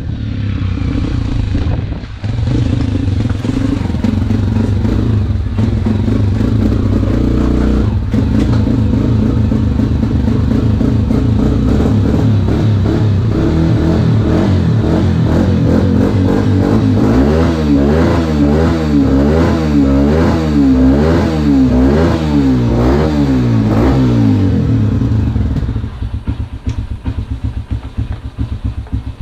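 Dirt bike engine running steadily. About halfway through, the throttle is revved up and down over and over for several seconds. Near the end the engine falls back to a lower, choppier sound.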